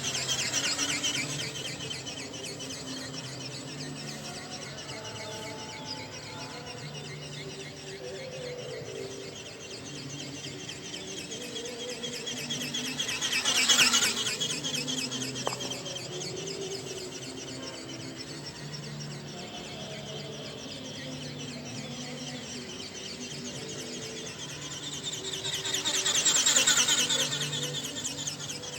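RC ornithopter's small electric motor and gearbox buzzing with a rapid ticking as it flies, growing loud as it passes close about halfway through and again near the end, then fading away.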